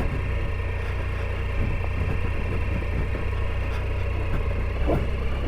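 Triumph Tiger 800 XCa's three-cylinder engine running at low, steady revs, with a few small knocks.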